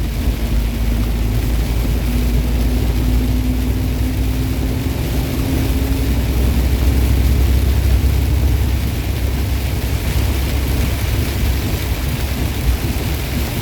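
Steady low rumble of a semi truck's engine and road noise heard inside the cab while driving in the rain, with a faint hum that rises slightly in pitch over the first half.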